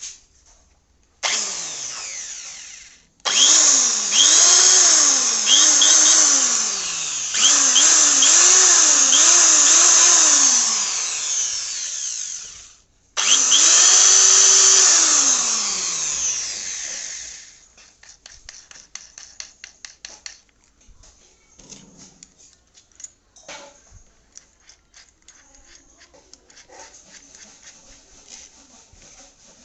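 Buildskill 300-watt electric drill running unloaded in three bursts, its motor pitch rising and falling as the trigger is squeezed and eased, and winding down after each burst. Faint clicks and handling noise follow in the last third.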